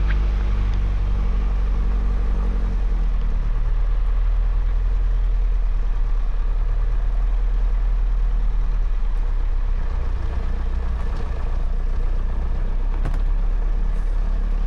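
Light airplane's piston engine idling steadily while the plane is parked after landing, just before shutdown. There are a few faint clicks near the end.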